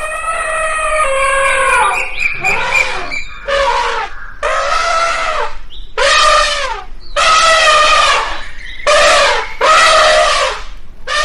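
A rapid series of about eight loud, high-pitched cries, each under a second and rising then falling in pitch, with short gaps between them.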